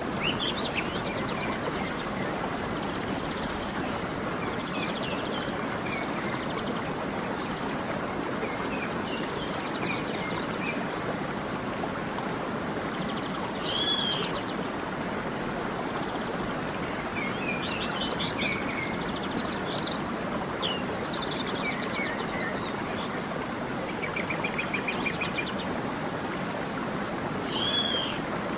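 A creek flowing steadily, with songbirds calling over it: scattered chirps and trills, and a louder arched double call about halfway through and again near the end.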